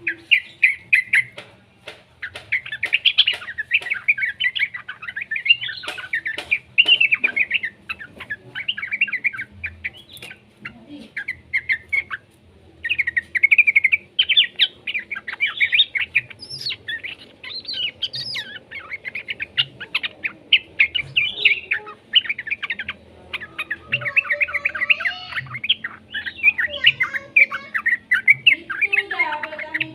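Young yellow-vented bulbul (trucukan) singing: rapid, bubbly chattering chirps in bursts, with a short pause about halfway through.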